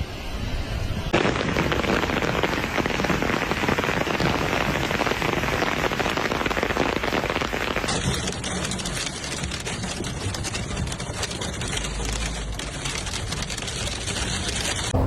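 Heavy downpour pelting hard surfaces, a dense, steady patter of countless sharp hits. The sound changes abruptly about a second in and again about eight seconds in.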